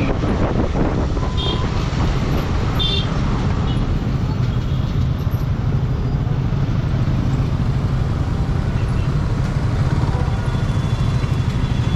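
A motorcycle riding in road traffic: steady engine and rushing wind noise, unbroken and at an even level.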